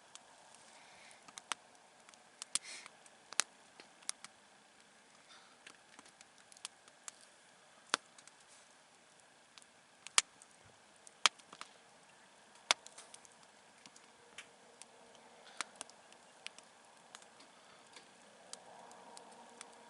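Wood campfire crackling: irregular sharp pops and snaps, a few much louder than the rest, over a faint hiss.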